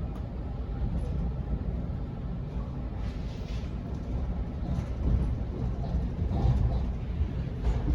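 Sydney Trains Waratah electric train in motion, heard from inside the carriage: a steady low rumble of the wheels and running gear on the track, with a few short rattles.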